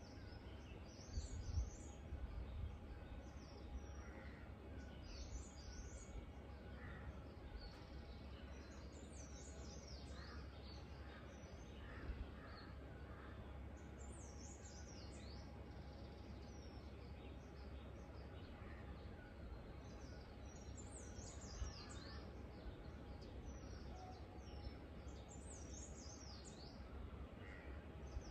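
Small birds chirping faintly in quick runs of high, sliding notes every few seconds, over a steady low rumble.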